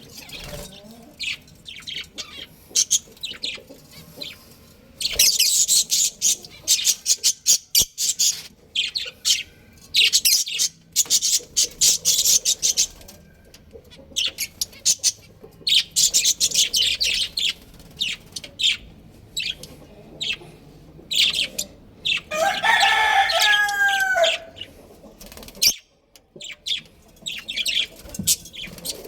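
Small birds chirping in repeated dense bursts of quick, high-pitched notes, with a rooster crowing once for about two seconds roughly three-quarters of the way through.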